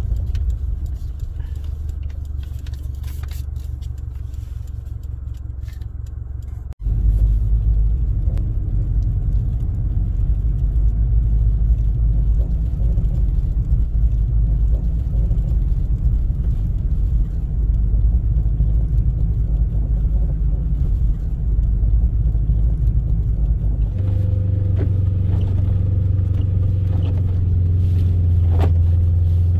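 A vehicle's engine and drivetrain running steadily while driving, a loud low rumble. It cuts out abruptly about seven seconds in and comes back louder. Near the end it shifts to a steadier, deeper hum.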